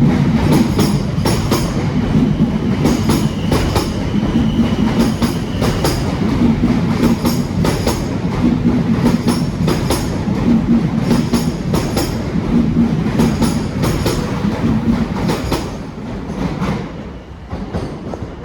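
Ten-car Class 444 Desiro electric multiple unit running past, its wheels clicking over the rail joints in regular pairs over a steady low hum. The sound fades over the last couple of seconds as the train draws away.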